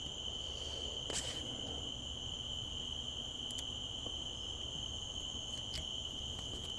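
Crickets chirring in a steady chorus: one unbroken high-pitched tone, over a low rumble and a few faint clicks.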